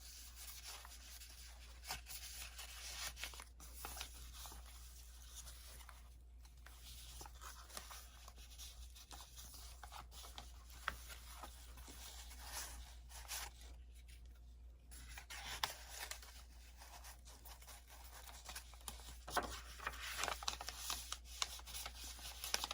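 Paper pages of a handmade journal being turned and handled: faint rustling and rubbing with scattered small ticks, busier near the end, over a steady low hum.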